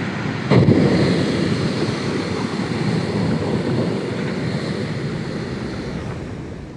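Loud rushing of surf and wind that starts suddenly about half a second in and slowly dies away.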